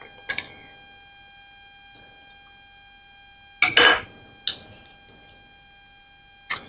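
Metal tuna cans and kitchen utensils knocking and clinking against a bowl: a few light knocks, a louder clatter about three and a half seconds in, then a few more knocks, over a faint steady whine.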